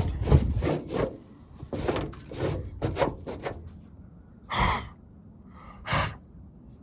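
Scraping and rubbing of a dry, papery old wasp nest being pulled and scraped off a house wall, in quick repeated strokes for the first few seconds. Near the end come two short, sharp breaths.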